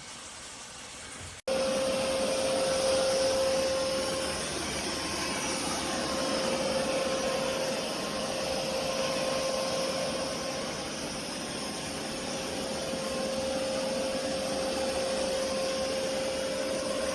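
Narwal Freo Z10 robot vacuum running: a steady whirring hiss with a constant hum-like tone. It starts suddenly about a second and a half in, after a quieter stretch of the same kind of noise.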